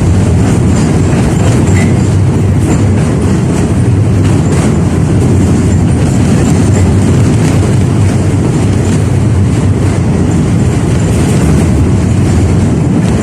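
71-605A (KTM-5A) tram running along the track: a steady, loud rumble of wheels on rails with faint scattered clicks, heard from inside the car.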